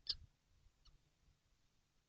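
Young kestrels in a nest box: one short, high call with a soft bump just after the start, a faint tick a little later, then near silence.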